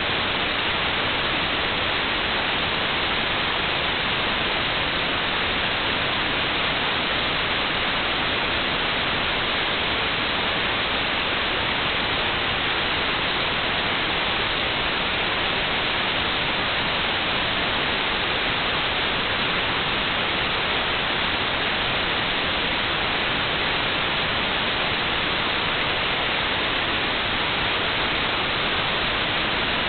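Electronically generated white noise: a steady, even hiss that does not change, cut off above about 4.5 kHz.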